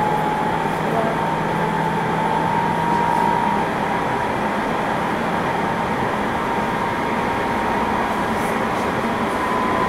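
Seibu 6000 series commuter train running at speed: steady rumble of wheels on rail with a faint motor whine that rises slowly in pitch as it gathers speed.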